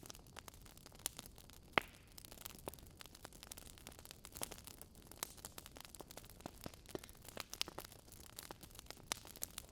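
Burning logs in a wood fire crackling, with irregular sharp pops over a soft hiss; one pop stands out about two seconds in.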